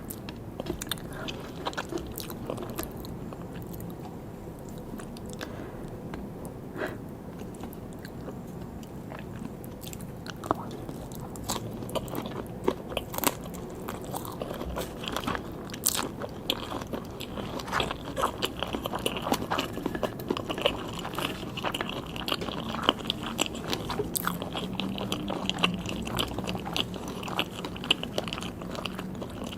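A person chewing and biting sushi close to the microphone, with crunchy bites. The crunching gets busier and louder about a third of the way in.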